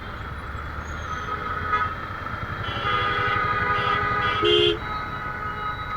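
Road traffic heard from a moving motorbike, with vehicle horns honking: a held horn from just under three seconds in, then a short, louder honk a little after four and a half seconds.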